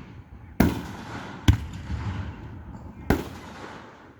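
Fireworks shells bursting: three loud bangs, about half a second in, at about a second and a half, and just after three seconds, each trailing off in a rumbling echo.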